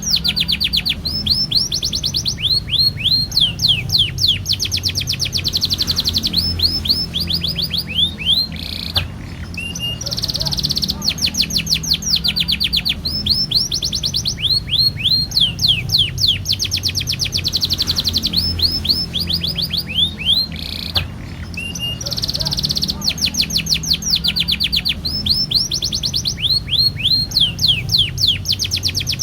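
Domestic canary singing a long, continuous song of rapid rolling trills and fast repeated chirps, breaking off briefly about nine and twenty-one seconds in.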